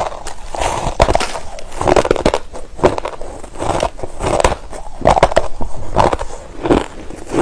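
A person chewing a mouthful of white crushed ice close to the microphone: repeated crisp crunches, about one to two a second, with the sharp crackle of ice breaking between the teeth.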